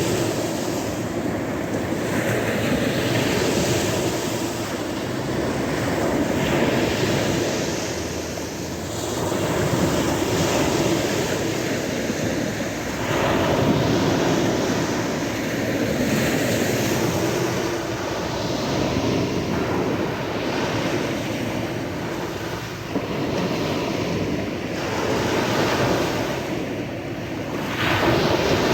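Sea waves washing onto a shore, a continuous surf that swells and eases every few seconds.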